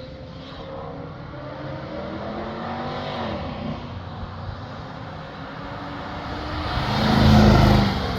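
Cars driving past on a winding mountain road, engines and exhausts running under acceleration. One car's note falls in pitch as it moves away about three seconds in, and a louder car passes close near the end.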